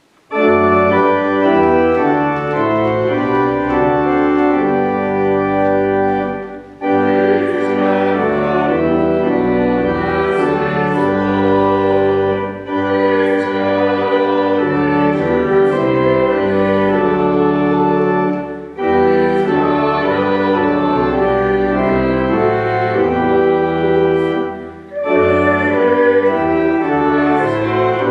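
Organ playing slow, sustained chords in phrases, with a brief break between phrases about every six seconds: offertory music after the call for giving.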